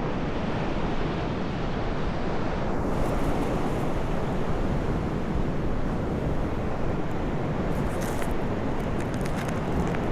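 Ocean surf and wind buffeting the microphone: a steady rushing noise, with a few faint high crackles near the end.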